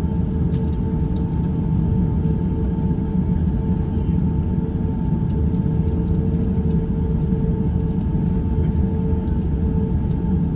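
Cabin noise of an Airbus A350-900 taxiing: a steady low rumble with a constant two-note hum over it.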